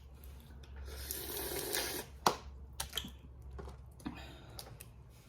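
Crawfish being shelled and eaten: a soft rustling hiss for about a second, then a few sharp, scattered clicks and cracks of shell.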